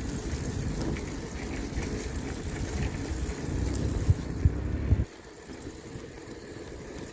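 Wind rumbling on the microphone of a moving bicycle, with a couple of knocks, dropping suddenly to a much quieter steady noise about five seconds in.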